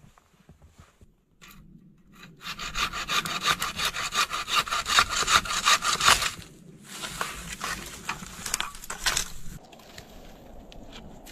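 Hand saw cutting through wood with fast back-and-forth strokes, loudest for a few seconds in the first half, then slower, fainter strokes.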